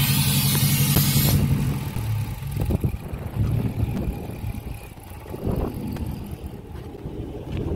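Chrysler 300C's Hemi V8 idling, loud with a hiss over it for about the first second and a half, then suddenly quieter and uneven. The idle is changed but has no cammed lope, just louder.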